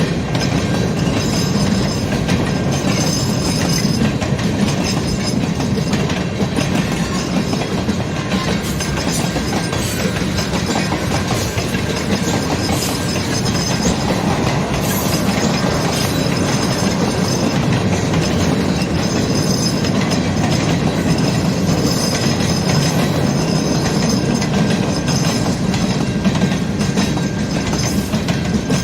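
CN mixed-freight manifest train rolling steadily past, its car wheels clicking over rail joints, with a high thin wheel squeal coming and going.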